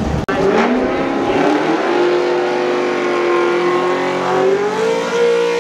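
Drag race car accelerating hard down the strip at full throttle. The engine note climbs in pitch over the first second or so, then holds high and steady.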